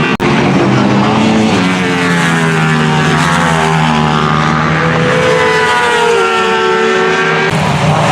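Racing engines running hard, several engine notes rising and falling in pitch as the vehicles pass, after a brief dropout just after the start.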